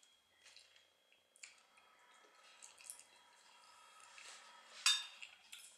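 Close-miked chewing with small wet mouth clicks and smacks, and a louder sharp click or clink about five seconds in.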